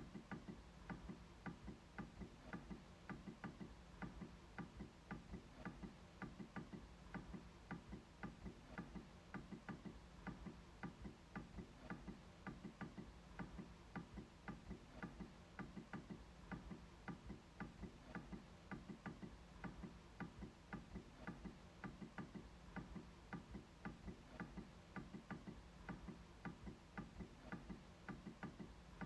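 MacBook trackpad being clicked repeatedly, faint, even clicks at about three a second.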